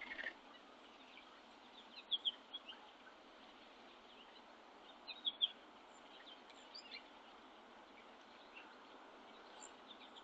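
Small songbirds chirping faintly: two quick clusters of short, high chirps about two and five seconds in, with a few scattered single notes, over a steady background hiss.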